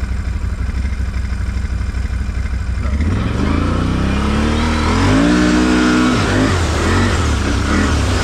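Off-road vehicle engine running low and steady, then revving up and down repeatedly from about three seconds in, as a vehicle that may be stuck tries to pull free.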